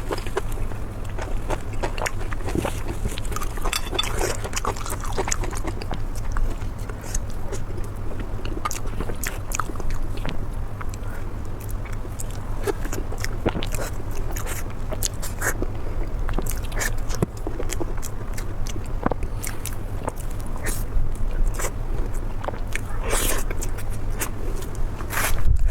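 Close-up eating sounds of a person biting and chewing spicy pork belly, with many short wet clicks and smacks, over a steady low hum.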